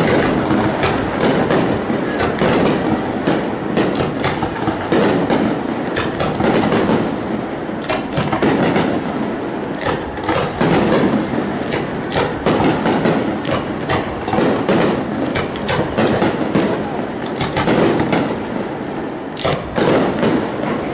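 Aerial fireworks bursting in quick, irregular succession: many sharp bangs and crackles over a continuous rumbling wash.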